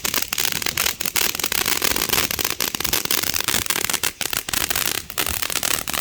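Snow cone firework fountain burning, a dense, continuous crackling spray of sparks.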